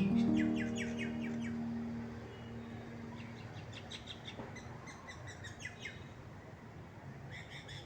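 Birds chirping in quick runs of short repeated high notes, with a low held note from background music dying away in the first two seconds.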